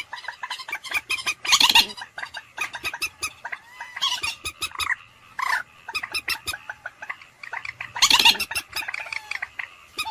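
Common moorhen calling: loud, harsh bursts about a second and a half in and again about eight seconds in, with quicker runs of short clicking notes between them.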